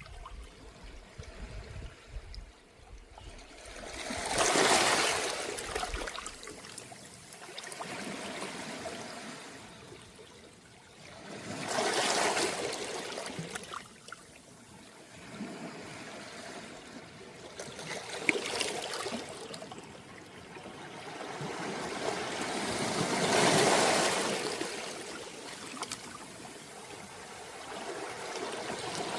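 Calm sea waves washing onto a round-pebble beach: about four gentle surges, each swelling and fading over a few seconds, with steady water noise between them.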